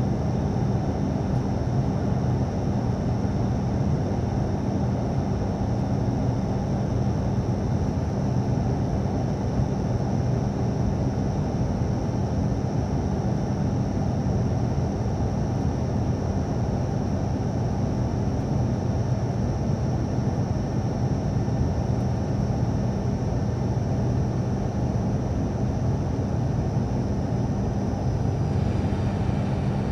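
Steady in-flight cabin drone of an ATR turboprop airliner: a low propeller and engine hum under a rushing noise, with a thin high whine that dips and fades near the end.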